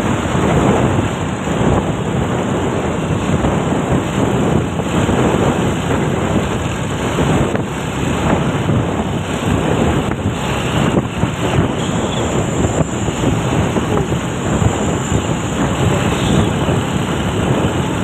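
Wind buffeting the microphone over the steady running noise of road traffic, with no distinct event standing out.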